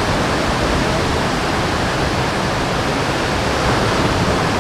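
Steady, even rushing noise with no pauses or distinct events.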